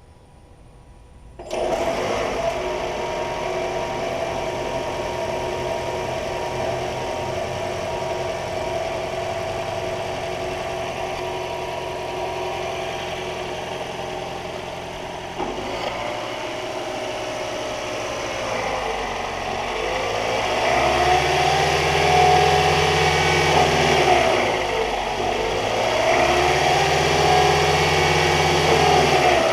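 2018 Lexus NX300h's 2.5-litre four-cylinder hybrid engine starting about a second and a half in and running steadily. Near the end it is revved up and let back down twice.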